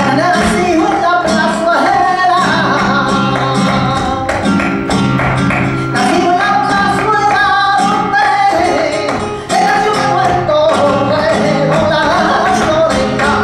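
Flamenco music: a voice sings long, wavering, ornamented lines over guitar, with sharp percussive strikes running through it.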